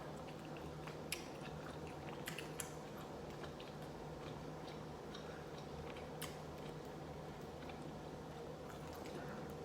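Faint chewing and mouth sounds of someone eating short rib soup and rice, with a few sharp clicks about 1, 2.5 and 6 seconds in, over a steady low hum.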